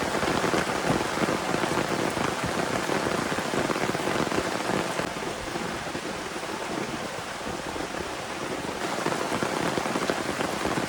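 Heavy rain falling steadily, a dense patter of drops that eases a little a few seconds past the middle before picking up again.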